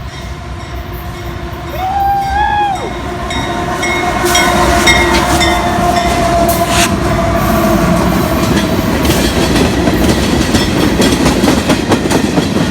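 Train passing close by: the sound builds about two seconds in to a loud steady rumble, with many quick clicks from wheels running over rail joints as the cars go past.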